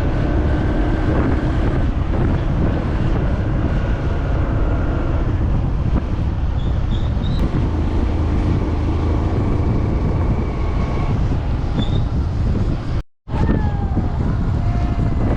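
Motorcycle engine running under way, with heavy wind noise on the microphone. The sound cuts out for a moment near the end.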